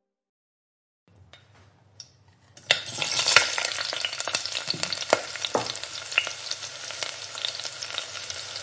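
Food frying in hot oil in a pan, a steady sizzle full of sharp crackles and pops. It comes in abruptly about two and a half seconds in, after a moment of silence.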